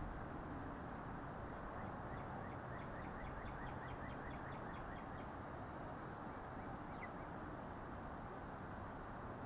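A wild bird calling in the yard: a rapid run of short, evenly spaced notes lasting about four seconds, then a single falling call about seven seconds in, with more quick notes starting near the end, over a steady outdoor background hiss.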